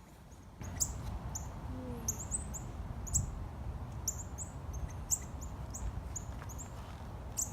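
Small songbird chirping: short, very high cheeps repeated about two or three times a second, starting about half a second in, over a low steady rumble.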